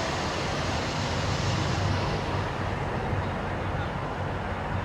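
Diesel tractor-trailer engine idling, a steady low rumble, with a higher hiss over it that fades away about two seconds in.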